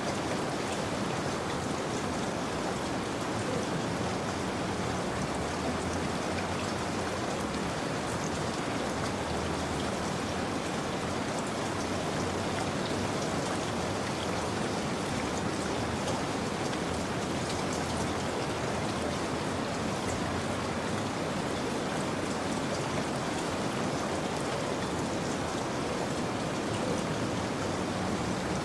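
Steady, continuous rain falling, with the fine patter of many drops on surfaces.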